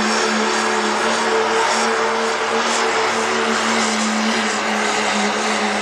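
Engine running steadily with a loud, unchanging drone that neither revs up nor down.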